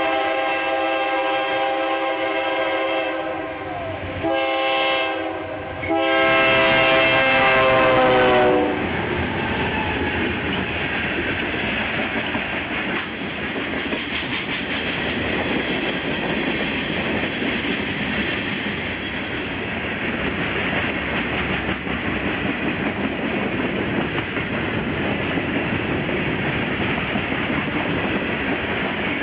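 BNSF GE Dash 9-44CW locomotive's air horn sounding three blasts: long, short, then long, the last dropping in pitch as the locomotive passes. It is followed by the steady rolling noise and clickety-clack of ballast hopper cars' wheels on the rails.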